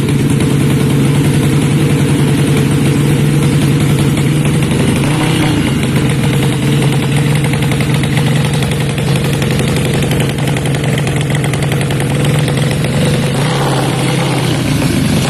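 Four-stroke 200cc underbone drag bike engine running loud and steady at an even speed.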